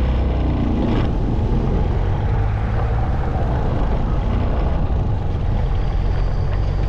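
Motorcycle running on the road, a steady low engine drone under constant road and wind noise.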